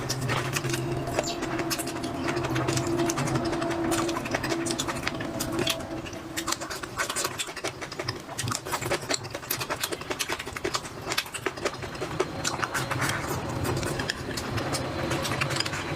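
Close eating sounds: chewing with many small, sharp mouth clicks. Under them a steady low hum fades out about six seconds in and returns near the end.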